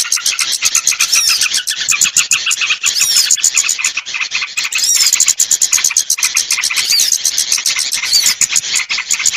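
Small-bird lure call (pikat): a dense, rapid chattering of high chirps with a short arched whistle note repeating every second or two.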